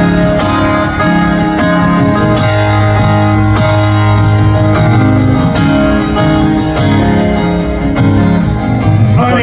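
Live country band playing an instrumental break in a slow ballad, guitar to the fore, with no vocal.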